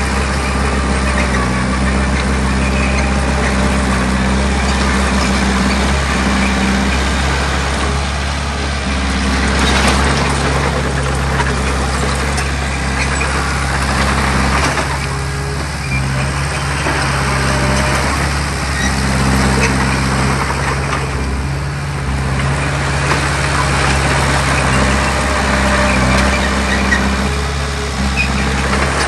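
Heavy diesel earthmoving machinery working: a steady low engine note whose pitch and strength shift from time to time under load, with a continuous rough, grinding noise over it.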